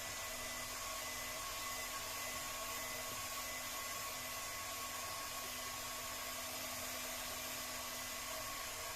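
Electric heat gun running steadily: a continuous rush of blown air over a fan-motor hum, warming the glue so the PVC fabric can be peeled off the boat's transom.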